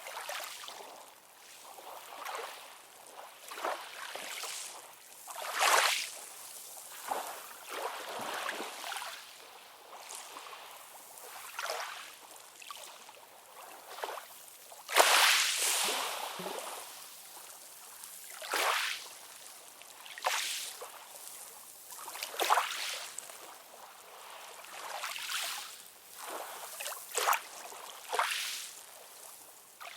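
Ocean surf: a hissing wash of waves with little bass, swelling and fading every couple of seconds. The biggest surge comes about halfway through.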